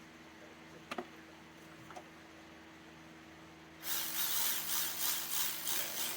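Two light clicks, then about four seconds in a cordless ratchet starts spinning an engine bolt down snug with a rough whirring that lasts about two seconds.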